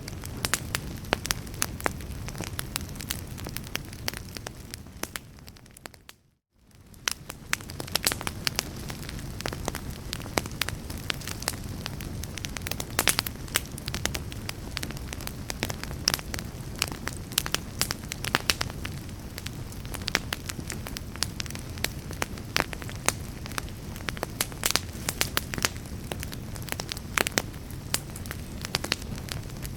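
Wood fire in a fireplace crackling, with frequent sharp pops over a steady low rumble. About six seconds in, the sound fades briefly to near silence and comes back.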